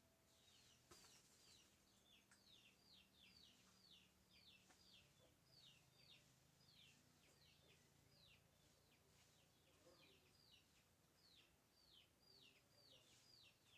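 Faint birds chirping: a rapid run of short, high notes that each drop in pitch, several a second, with a faint low hum underneath.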